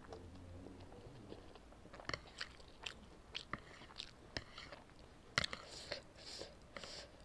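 Close-up chewing of instant noodles: a run of sharp mouth clicks and smacks that starts about two seconds in, the loudest one about two-thirds of the way through.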